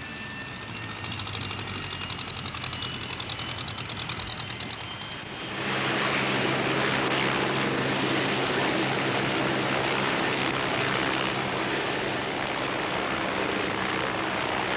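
Steady aircraft engine noise with a high whine. It jumps suddenly louder and denser about five and a half seconds in and stops abruptly at the end.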